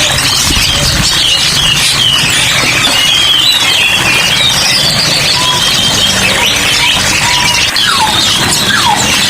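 Dense chorus of many caged songbirds chirping and trilling at once, as in a bird shop, with overlapping warbling phrases and a few short falling whistles.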